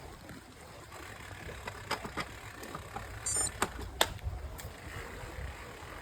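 Bicycle being ridden: a steady low rumble, with several sharp rattles and knocks around two to four seconds in and a brief high chirp just after three seconds.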